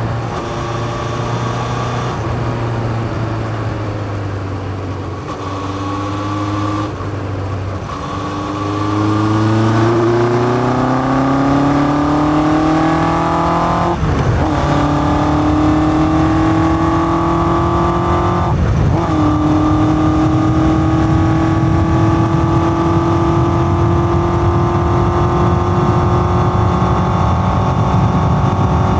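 A 1981 Yamaha XJ550's air-cooled inline four, breathing through open K&N pod filters and a four-into-one exhaust, pulls up through the gears. The revs rise, drop at an upshift about 14 seconds in, rise again, and drop at a second upshift about 19 seconds in before the bike settles into a steady cruise. Wind and road noise run underneath.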